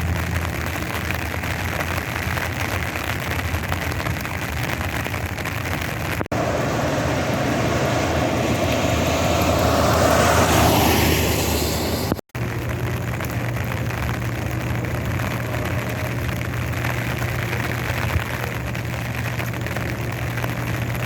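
A motor vehicle's engine running steadily with a low hum. In the middle stretch a louder rushing sound swells and fades, like a vehicle passing close by.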